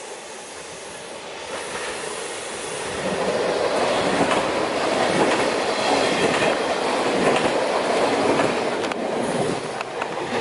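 Electric multiple-unit passenger train running past on the rails, growing louder over the first few seconds as it nears and stays loud while it passes, then dropping away near the end.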